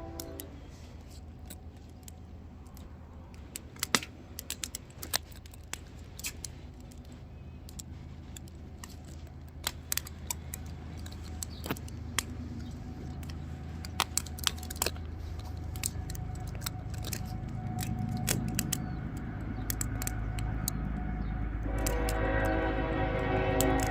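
Burning firewood crackling and popping in irregular sharp snaps. From about two-thirds of the way in, a deep rumble grows steadily louder, and a held horn with several tones sounds near the end.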